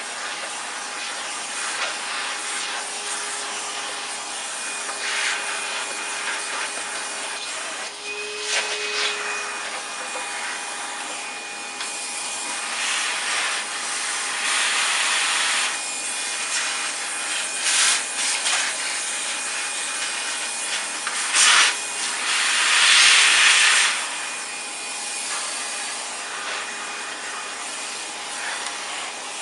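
A vacuum cleaner runs steadily while its nozzle is rubbed and scraped over the parts of an opened-up Hoover upright to clean out the dust. Its suction rises in louder hissing surges several times, most strongly about two-thirds of the way through.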